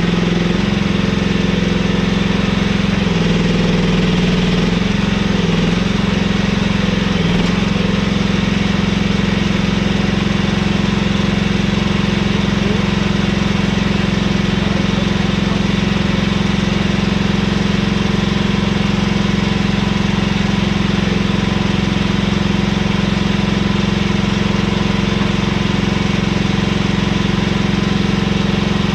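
Mini excavator's diesel engine running at a steady working speed, its pitch dipping briefly a few times in the first several seconds as the machine takes load, then holding steady.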